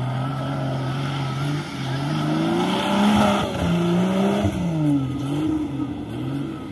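Off-road jeep's engine revving up and down as it is driven over dirt mounds and ruts, its pitch climbing and dropping several times and loudest about halfway through.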